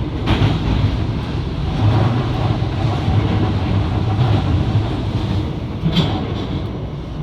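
Electric commuter train running between stations, heard inside the carriage: a steady low rumble of wheels and running gear on the rail, with a sharp click about six seconds in.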